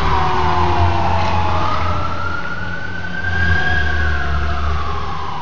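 Emergency vehicle siren wailing: the pitch slowly falls over the first two seconds, climbs again until about four seconds in, then starts to fall, over a steady low rumble.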